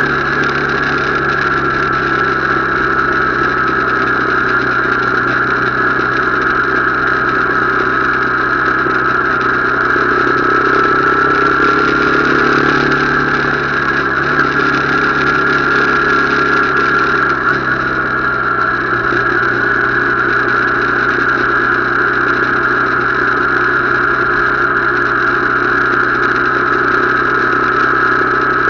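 Motorcycle engine running steadily, with a constant high whine over the low hum and only slight drifts in pitch.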